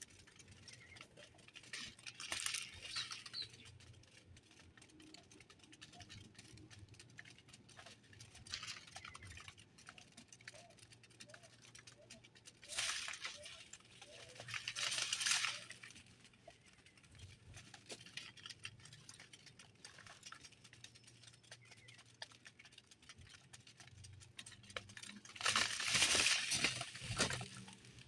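Small birds moving about a feeder: light tapping and pecking, with several short bursts of rustling, the loudest near the end, and a few faint short chirps in the middle.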